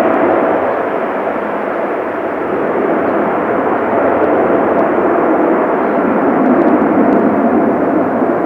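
Jet engines of a landing Airbus A321neo, a loud steady rushing noise with a faint steady whine through it, swelling slightly near the end.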